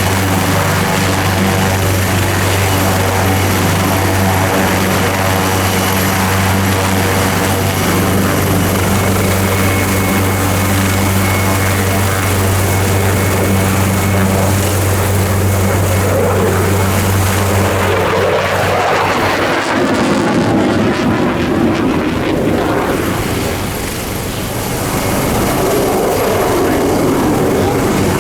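Leonardo AW249 Fenice attack helicopter in flight: a steady, loud low rotor drone with a stack of even harmonics. The drone ends about two-thirds of the way through, leaving a noisier, wavering rumble.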